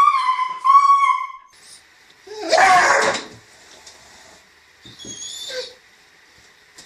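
A pet animal's high-pitched calls, bending in pitch, then a loud noisy cry with a falling tone about two and a half seconds in, and a shorter one about five seconds in.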